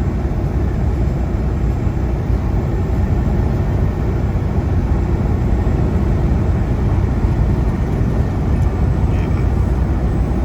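Semi truck's diesel engine and tyres droning steadily at highway cruising speed: a constant low rumble with road noise, no shifts or changes.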